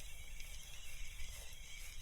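Faint steady outdoor background: a low rumble under a soft hiss, with no distinct event.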